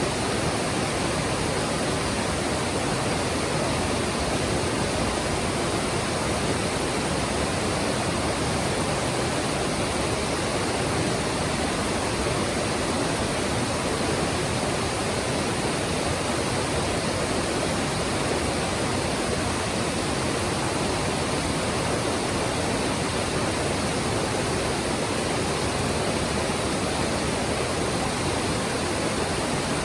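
Mountain stream water rushing and splashing over rocks in a steady, even roar.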